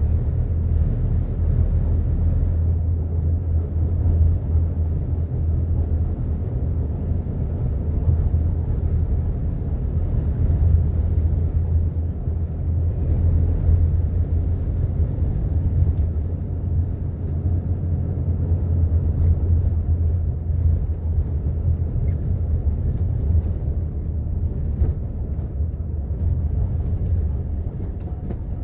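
A steady low rumble that holds at the same level throughout, with faint noise above it and no clear separate events.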